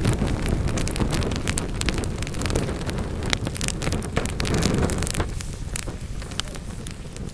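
Wood fire in a fireplace crackling, with many sharp pops of burning logs over a low rumble of flame. The rumble drops away about five seconds in, leaving mostly the crackles.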